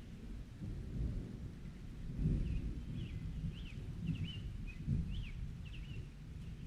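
Rolling thunder rumbling low, swelling about two seconds in and again near five seconds, over a faint hiss of rain. Through the middle comes a run of short, high sweeping chirps.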